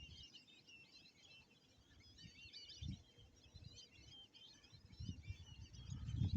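Many small birds chirping and twittering in a steady chorus, with a few low dull knocks, louder near the end.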